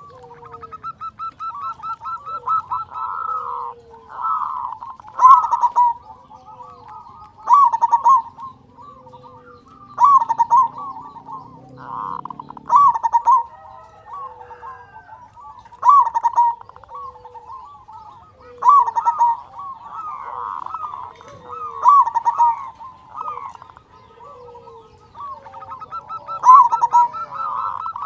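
Zebra dove (perkutut) singing: repeated phrases of quick rolling coos, with a loud phrase every two to three seconds.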